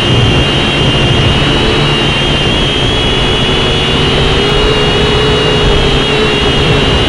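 JJRC H5C toy quadcopter's motors and propellers whining steadily in flight, the high pitch wavering slightly as the motors correct. Strong wind rumbles on the microphone underneath.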